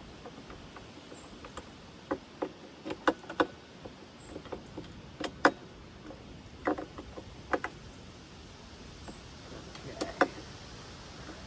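Irregular clinks and knocks of hand tools on metal sawmill parts while the splitter is being adjusted: a dozen or so sharp taps at uneven intervals, the loudest about three seconds in and about halfway.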